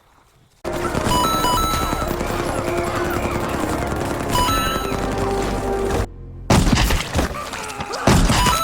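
Action cartoon soundtrack: music under a fusillade of gunfire, starting after a brief moment of near silence. Loud sharp hits come about six and a half and eight seconds in.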